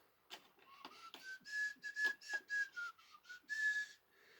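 A person whistling a short tune, a run of breathy notes that rises, dips and rises again, with a few light clicks.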